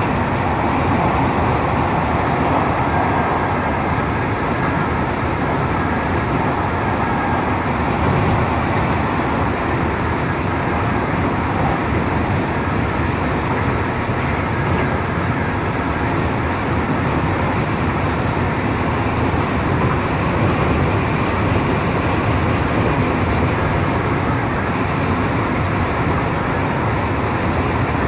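Hanshin Railway electric train running, a steady, even rumble with no sudden changes.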